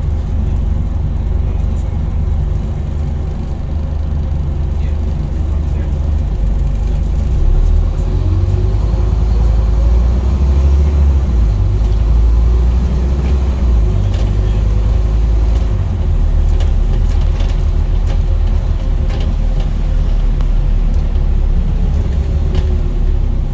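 Scania N230UD double-decker bus's five-cylinder diesel engine running under way, heard from on board: a heavy low rumble that swells and eases as the bus pulls away and slows, with a pitch rising about ten seconds in and falling near the end, and scattered clicks and rattles.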